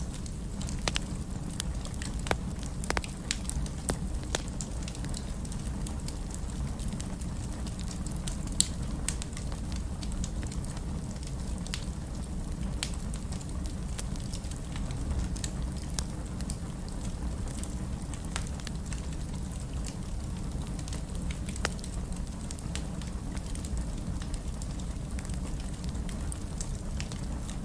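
Wood fire in a fireplace crackling: sharp pops scattered over a steady low rumble. The pops come thickest in the first few seconds and thin out later.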